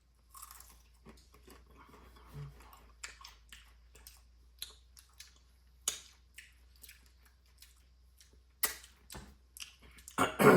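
Crunchy carne seca (dried beef strips) being bitten and chewed, an irregular run of crisp crackly crunches, loudest near the end.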